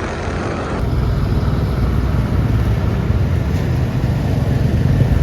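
Motorcycle on the move: a steady low rumble of engine and road noise.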